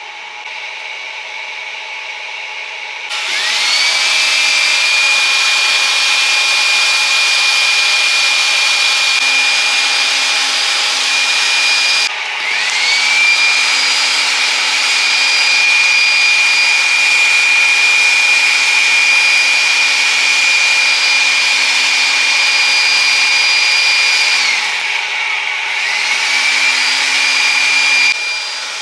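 High-speed electric blower spinning up with a rising whine that settles into a steady high whine over rushing air, typical of a blower fanning a charcoal grill. It is switched off and back on twice, winding down and spinning up each time, and cuts off near the end.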